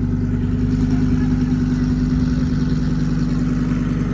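An engine idling steadily, a constant low hum with a light rhythmic flutter.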